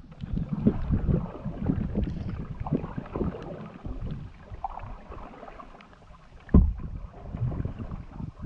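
Canoe being paddled: irregular paddle strokes and water splashing and knocking against the hull, with one louder thump about six and a half seconds in.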